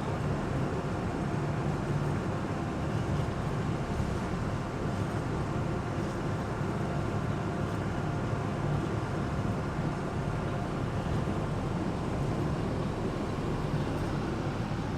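Amphibious Duck tour vehicle under way on the river, its engine running at a steady drone with even rushing noise over it.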